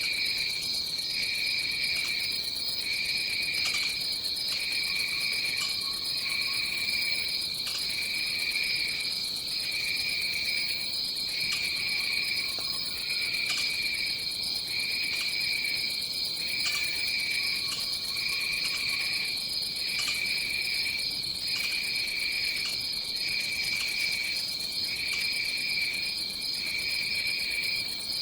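Tropical forest insect chorus: a steady high trilling drone, and a second, lower insect chorus that pulses on and off about every second and a bit. A faint lower call is heard now and then.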